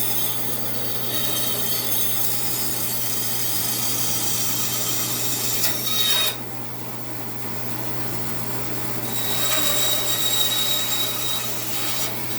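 2002 Central Machinery 14-inch bandsaw running with a steady motor hum while its blade cuts through a white oak axe-handle blank. The cutting noise drops off suddenly about six seconds in, then picks up again about three seconds later before easing near the end.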